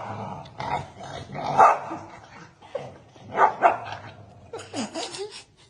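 A dog barking several times in short, separate barks, with a final bark near the end that slides in pitch.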